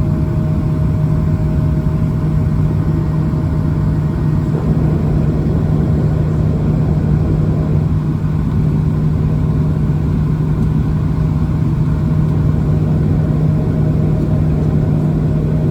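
Airbus A220-300 cabin noise from a window seat: the Pratt & Whitney PW1500G geared turbofans running at takeoff or climb power, a loud, steady drone with a constant low hum and a fainter, higher steady tone.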